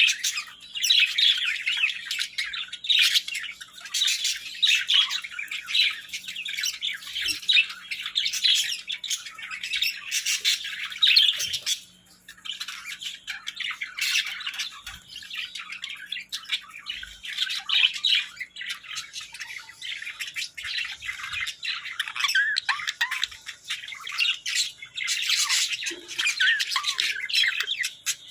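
A pair of Hagoromo budgerigars chattering and warbling: a dense, rapid stream of chirps, squeaks and squawks, with a brief lull about twelve seconds in.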